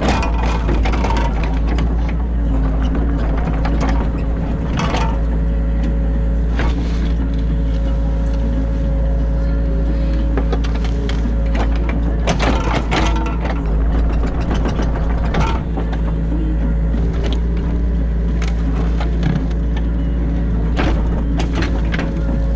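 Excavator diesel engine running at a steady speed, heard from inside the cab, with irregular clanks and knocks from the digging gear as it works the ditch.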